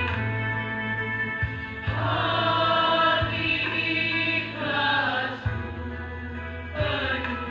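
A choir of young voices singing together over held low accompaniment notes that change every couple of seconds, with a few short knocks underneath.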